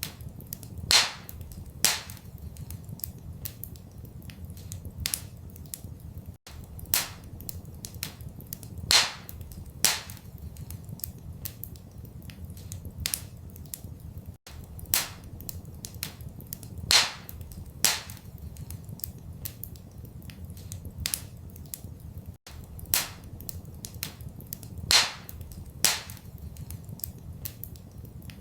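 Wood fire crackling in a fireplace, with sharp pops (the loudest in pairs about a second apart) over a low, steady rumble. The same eight-second stretch repeats as a loop, with a brief dropout at each seam.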